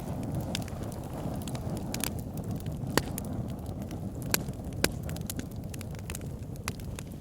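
Wood fire burning in an outdoor fire pit: a steady low rush of flame with irregular sharp crackles and pops, a few louder snaps about three, four and a half, and five seconds in.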